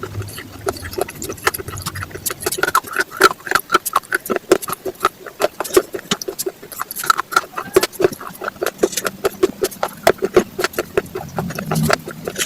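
Raw vegetables being chewed: rapid, continuous crunching, several crisp bites and chews a second.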